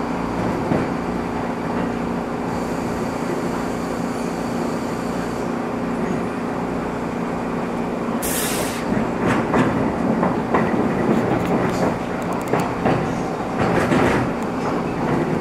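East Rail Line electric train running, heard from inside the carriage: a steady motor hum over rolling noise. About eight seconds in comes a short, loud hiss, and then the wheels clack over the track in the last few seconds.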